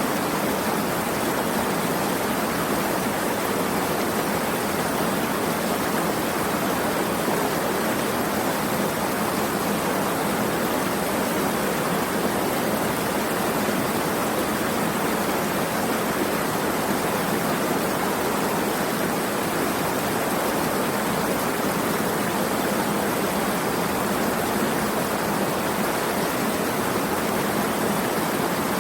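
Running water making a steady, even rush, with little deep rumble.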